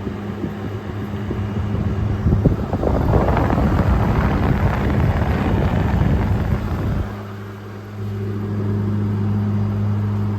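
GE 5,000 Btu window air conditioner running, its compressor giving a steady low hum. From about two seconds in, a loud rush of air from its fan buffets the microphone, then cuts off suddenly about seven seconds in, leaving the steady hum.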